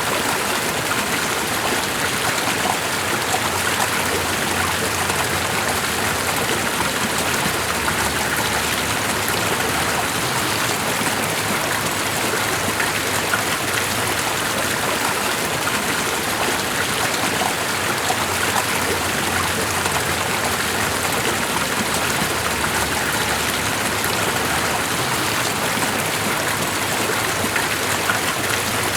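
Running water, like a stream, giving an even, unbroken rush.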